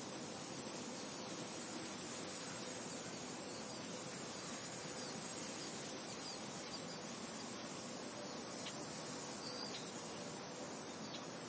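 Steady wind noise: an even, unchanging hiss with a grainy high band on top and a few faint, short high chirps in the last few seconds.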